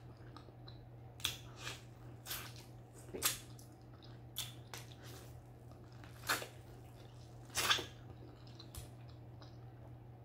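Close-up eating sounds of biting into and chewing boiled corn on the cob: irregular crisp clicks and wet smacks as kernels are bitten off the cob and chewed, a few louder bites about six and seven and a half seconds in, over a low steady hum.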